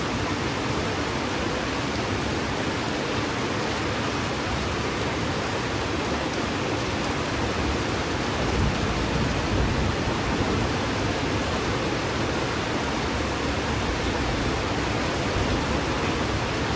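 Rain falling steadily, a dense, even hiss with no distinct drops or pauses.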